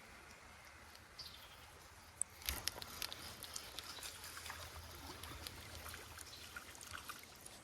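Faint creek water trickling, with a few light clicks and small splashes about two and a half seconds in.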